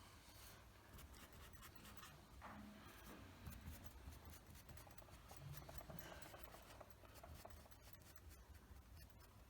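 Near silence with faint scratching and rubbing of a paintbrush working acrylic paint, over a low room hum.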